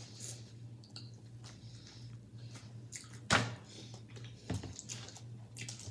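Quiet close-up eating sounds, someone chewing and biting into corn on the cob, with scattered small clicks over a low steady hum. A sharp knock comes about three seconds in and a smaller one a second later.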